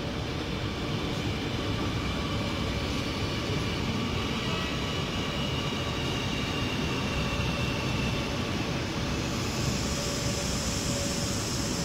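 CR400-series Fuxing high-speed electric train rolling slowly along a station platform: a steady rumble with a thin high whine over it. About nine and a half seconds in, a hiss joins.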